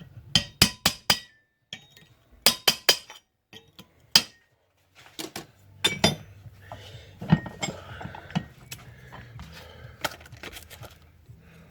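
Hammer blows on a small piece of sheet steel held in a vise as it is bent to shape, sharp ringing metallic strikes in quick runs of three or four, then single blows with some handling of the metal between them.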